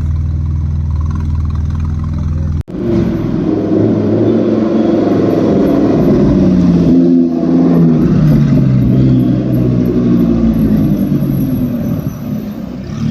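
A sports car engine runs at a steady low note. After an abrupt cut it is replaced by a loud engine revving and pulling away, its pitch rising and falling, easing off near the end.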